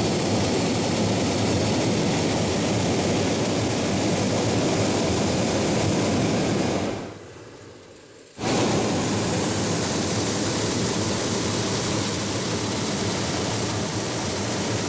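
Hot-air balloon propane burner firing in two long blasts. The first cuts out about seven seconds in, and the burner fires again about a second and a half later.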